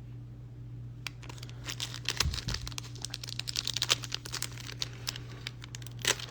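Foil booster-pack wrapper crinkling and rustling as a trading-card pack is handled and opened, in a dense run of short crackles starting about a second in, over a steady low electrical hum.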